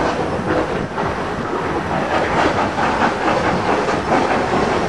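A train running along the track: a steady dense rumble and rattle with repeated short knocks.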